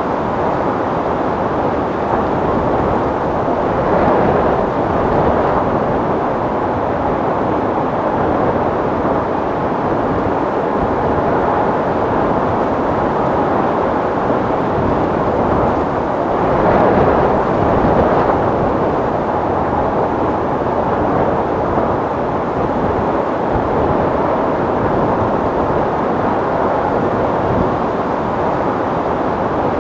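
Strong wind blowing steadily, swelling in gusts about four seconds in and again a little past the middle.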